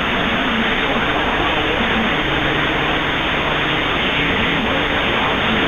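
CB radio receiver hiss between transmissions, with a low tone that wavers up and down a couple of times a second in the static.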